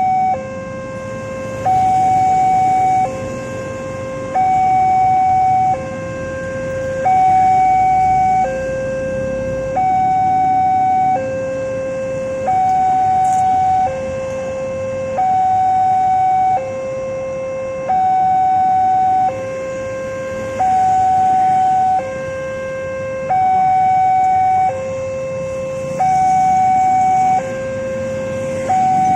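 Railroad level-crossing warning alarm sounding as a two-tone electronic signal: a higher tone and a lower tone alternate steadily, each held about a second and a half. It signals that a train is approaching and the barriers are closing.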